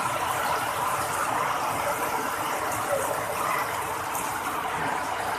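Steady rush of water from heavy rain.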